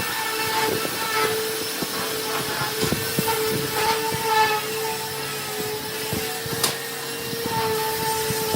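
A handheld electric power tool running with a steady whine on old wood, its pitch sagging slightly now and then as it takes load, with scraping and short ticks from the work.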